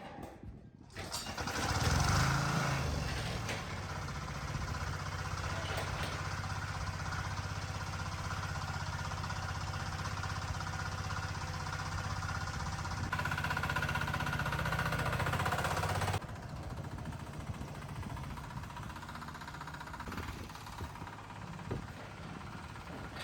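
A small engine starts about a second in and runs steadily at a constant speed. Its low hum stops abruptly about sixteen seconds in.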